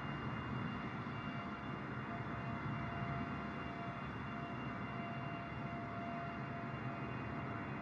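Jet airliner engines running steadily: a continuous low roar with a thin, steady high whine over it.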